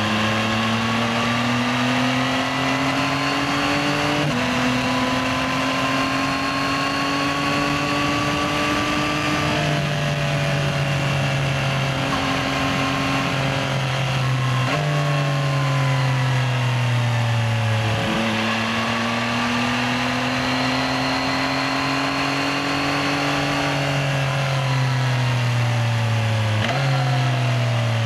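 Yamaha XSR900's three-cylinder engine pulling through the gears while ridden in traffic: the engine note climbs steadily in each gear and drops sharply at each upshift, about three times, with stretches where it falls away as the bike slows.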